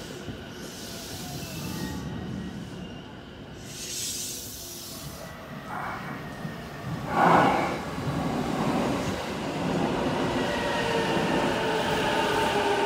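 JR Yokohama Line E233 series electric train arriving at the platform: a steady rumble of wheels on rail, with a short loud burst about seven seconds in. As the train draws alongside and brakes, the rumble grows and a motor whine falls slowly in pitch.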